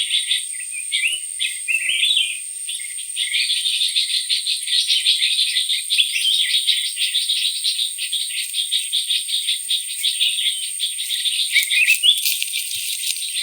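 A forest insect chorus: a steady high whine over dense, fast chirping, with a few short rising calls. A brief burst of rattling clicks comes near the end.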